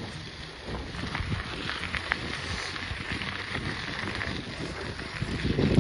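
Wind buffeting a chest-mounted microphone while riding a bicycle, an uneven low rumble with scattered light clicks and rattles. It grows louder after about a second and gusts hardest near the end.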